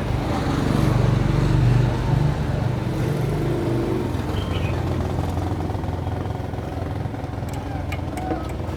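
A motor running with a steady low rumble, louder over the first two seconds or so. A few light clicks come near the end.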